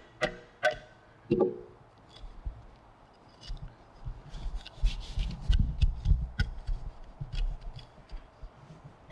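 Chisel in a timber mortise corner struck three times with a mallet, each blow ringing briefly, then the chisel paring and scraping out wood waste with scattered clicks and rubbing.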